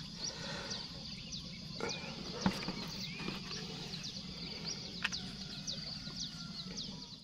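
Small birds calling with many short, quickly repeated chirps over a steady low hum, with a few sharp clicks, the loudest about two and a half seconds in.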